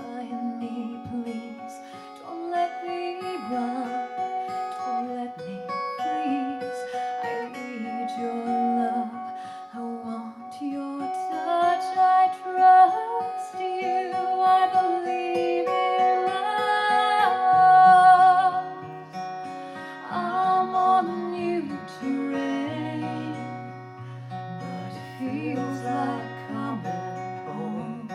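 Live acoustic guitar music, a passage of a song with no sung words, with long held melody notes over the guitar and low sustained notes coming in about two-thirds of the way through.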